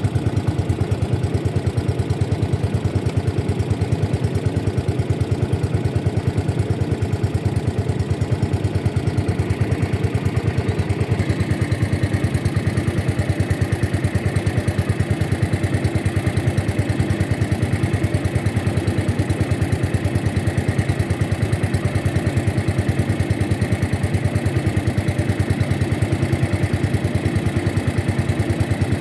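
A boat's motor running steadily and close, a fast even chugging with a change in tone about ten seconds in.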